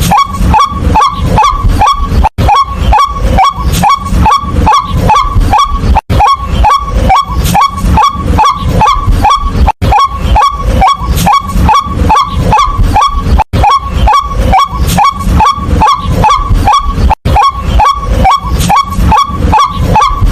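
White-breasted waterhen calling: a fast, unbroken run of short upward-sweeping notes, about three a second, with a brief break every few seconds.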